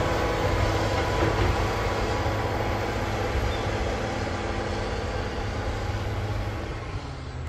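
Caterpillar D7G crawler bulldozer's diesel engine running steadily under work, with dense mechanical rumble, easing off slightly near the end.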